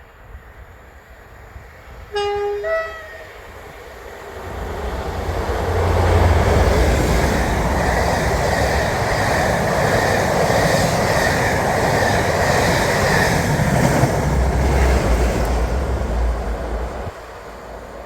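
Two-tone horn of a Class 57 diesel locomotive, a short lower note then a higher one, about two seconds in. The locomotive-hauled train then passes at speed: deep engine rumble as the first locomotive goes by, a long steady rush of wheels and coaches, and a second spell of engine rumble near the end from the other locomotive, before the sound drops off suddenly.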